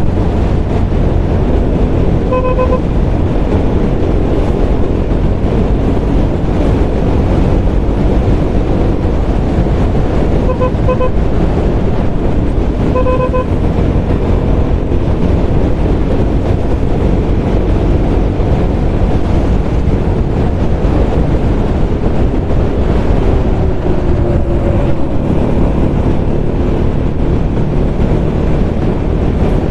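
Steady wind and road noise from a motorcycle on the move, with a vehicle horn tooting in quick short beeps three times: about two seconds in, then around eleven and thirteen seconds in.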